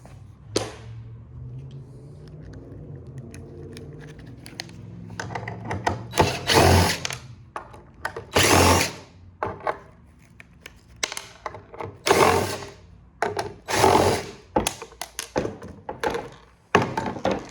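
Power drill backing screws out of a printer's frame: a steady motor hum at first, then several loud spins about a second long, with short clunks of tool and parts between them.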